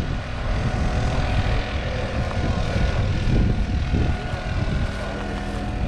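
Tractor diesel engine running steadily, a continuous drone with a heavy low rumble.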